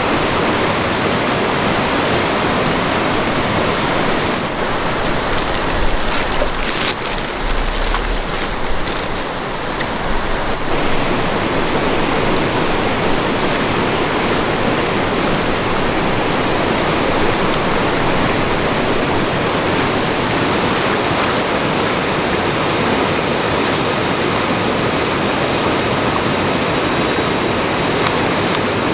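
Steady rush of fast-flowing stream water. From about four seconds in, for several seconds, the rush dulls a little and a few low bumps and a sharp click are heard.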